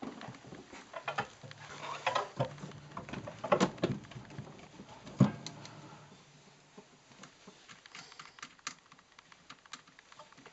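Irregular light clicks, taps and knocks of tools and parts being handled, with two louder knocks about three and a half and five seconds in. A faint low hum runs under the first part and stops about two-thirds of the way through.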